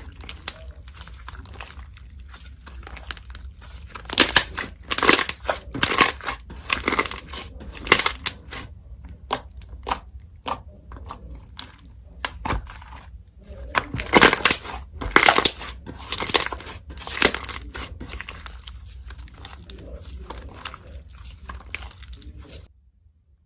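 Slime being squeezed and stretched by hand, making crackling and popping sounds in bursts, busiest about four to eight seconds in and again around fourteen to eighteen seconds. A steady low hum runs underneath and cuts out near the end.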